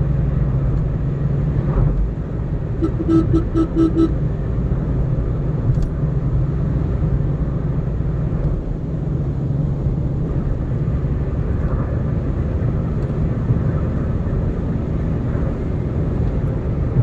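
Car driving with a steady rumble of engine and road noise. About three seconds in, a quick string of about six short beeps sounds over it.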